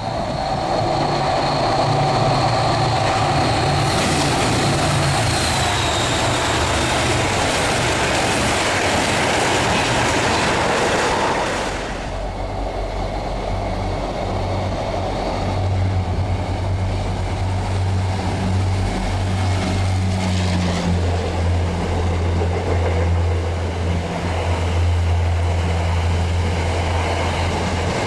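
MBTA commuter rail train passing on the main-line tracks. A broad rushing noise drops off sharply about twelve seconds in and gives way to a low, steady engine drone as the bilevel coaches go by.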